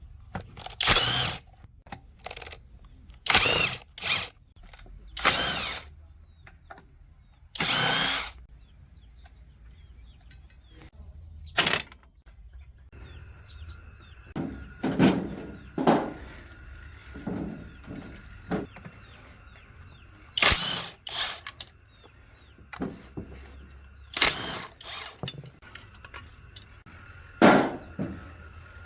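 A handheld power tool, such as a drill, run in short bursts of about half a second to a second, a dozen or so times with pauses between.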